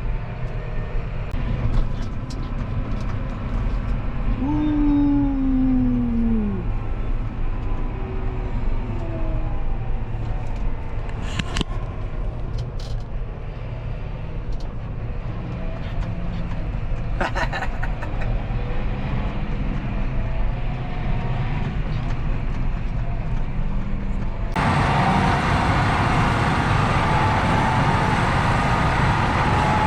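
Steady drone of the John Deere 6R 175 tractor's engine and drivetrain, heard while driving. A single falling tone is heard about five seconds in. Near the end the sound abruptly turns louder and brighter.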